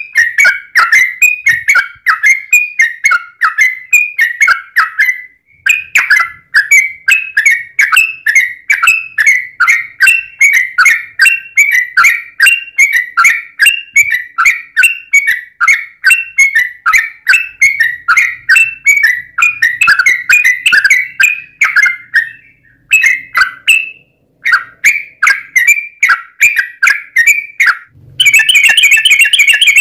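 Yellow-vented bulbul (trucukan) singing a long, rapid run of short chirpy notes, about three a second, with a couple of brief pauses. Near the end the song turns louder and denser.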